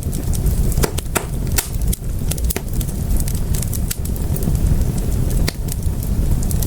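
Fire in a fireplace crackling, with irregular sharp pops and snaps, several a second, over a steady low rumble of the flames.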